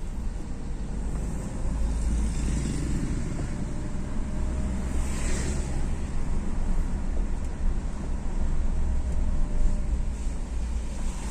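Motor-vehicle and road noise with a steady low rumble. A louder hissing swell about five seconds in sounds like a vehicle passing close by.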